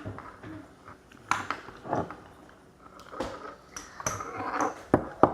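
A handful of light, irregular taps and knocks of a small hammer and wooden kit pieces, spaced unevenly about a second apart.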